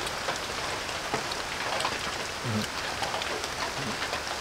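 Rain falling steadily, with scattered separate drops ticking through the hiss. A brief low sound comes about halfway through.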